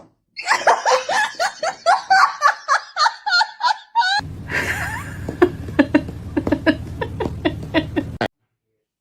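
Hearty human laughter in rapid, high-pitched bursts. About four seconds in, the sound changes to a heavy low rumble with more bursts of laughter over it, and it all cuts off suddenly about eight seconds in.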